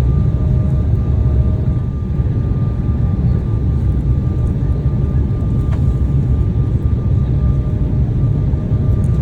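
Steady cabin noise of a Boeing 737 in flight, heard from inside: a deep roar of engines and airflow, with a faint steady high whine.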